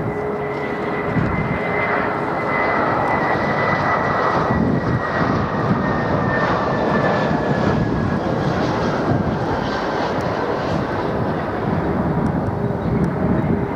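Jet airliner flying past on approach to land, a steady engine rush with a high whine that slowly falls in pitch.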